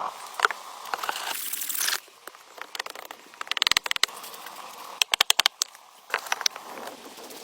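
Rustling and crackling with scattered sharp snaps, and two runs of quick rapid clicks around the middle.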